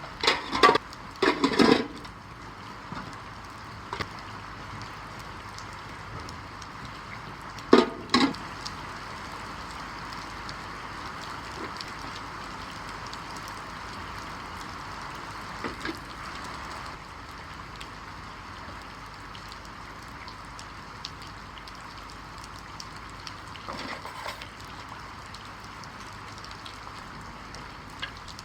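Steady rain falling, an even hiss, with a few short louder knocks about a second in and again around eight seconds in.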